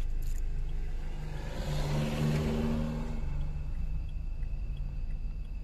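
Car engine running as it is driven, heard from inside the cabin, with a steady low hum whose note grows louder for a second or so about two seconds in, then settles back.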